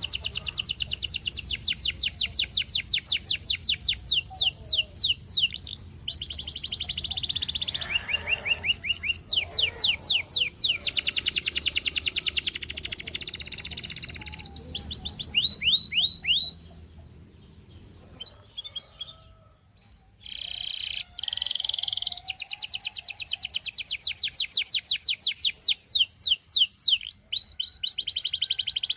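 Canary singing: long, fast trills of repeated downward-sweeping notes in rolling phrases. About two-thirds through there is a pause of a few seconds with only soft, scattered notes before the trilling resumes.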